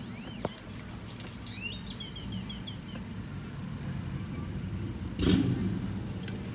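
Car engine idling steadily, heard from inside the cabin. A bird chirps a quick series of short notes about two seconds in, and there is a brief thump a little after five seconds.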